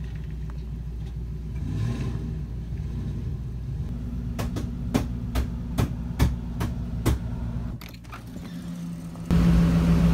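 SUV engine running with a steady low rumble as the vehicle pulls in and sits in the driveway. Through the middle come a string of sharp clicks. Near the end a louder steady hum cuts in suddenly.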